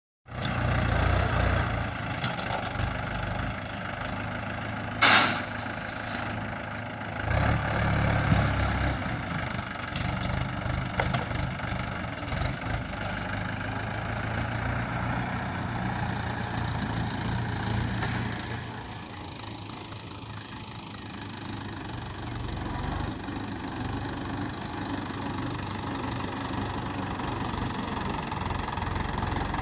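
Tractor engine running steadily, with a sharp knock about five seconds in and a louder burst of engine sound a couple of seconds later.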